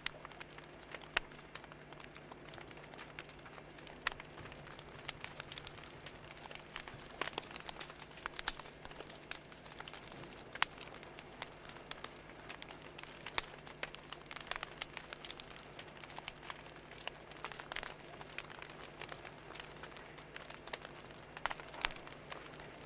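Wood fire crackling, with irregular sharp pops scattered throughout over a faint steady low hum.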